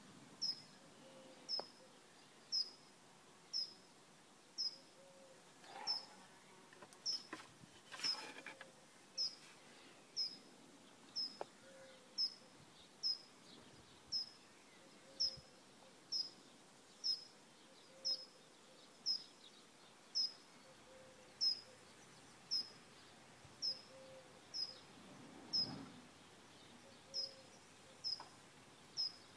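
A small songbird repeating a single short, high chirp about once a second, very regularly, over a faint steady outdoor hiss. A few soft clicks come in between, the clearest about eight seconds in.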